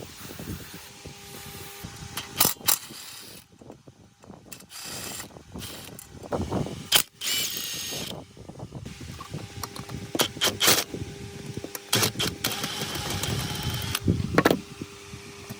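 Workshop work noises: a string of irregular sharp knocks and clicks from hand work on machinery, with a brief high squeal about halfway through and a hissing stretch late on.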